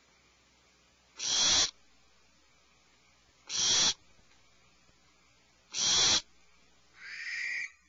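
Barn owl giving three loud, harsh screeches about two seconds apart, each lasting about half a second, followed near the end by a fainter, shorter call.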